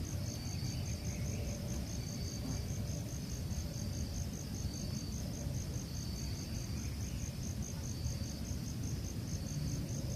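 Cricket chirping steadily in quick even pulses, about four a second, with a second, lower insect call repeating every second and a half or so, over a low outdoor rumble.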